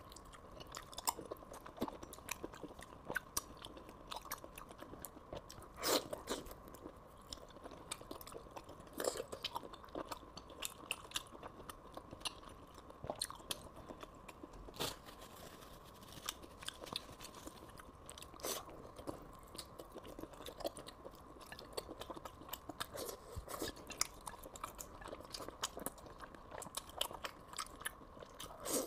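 Close-miked chewing and biting of braised meat with gelatinous skin: irregular mouth clicks and smacks, a few sharper bites standing out.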